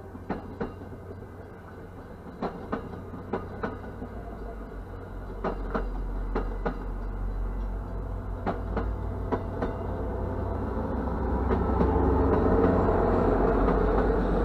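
MBTA commuter rail coaches passing over a grade crossing. The wheels clack over the rail joints in quick pairs, over a low rumble. The rushing noise swells near the end.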